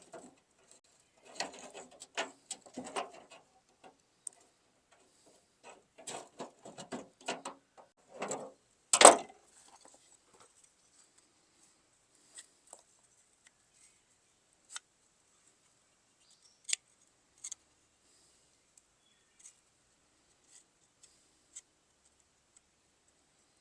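Hand work on an old pickup tailgate's hardware: clusters of small clicks, rattles and scraping, with one loud knock about nine seconds in, then only scattered faint ticks.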